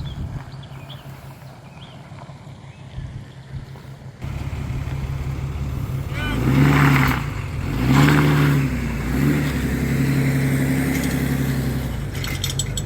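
Boat engine running steadily, then louder about four seconds in, its pitch rising and falling as the throttle is worked before settling into a steady run.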